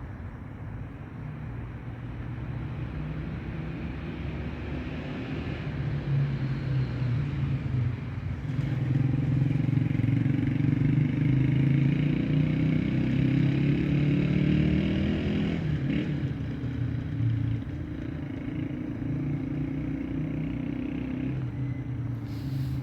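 A motor vehicle engine running, growing louder about eight seconds in and easing off again after about sixteen seconds.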